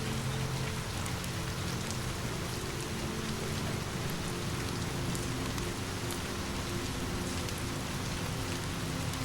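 Steady rain falling on a surface, a continuous hiss with scattered sharp drop-like ticks and a low steady hum underneath.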